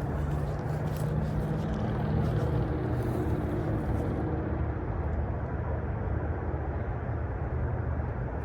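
A steady low motor drone with a rushing noise and a faint low hum, unchanging throughout.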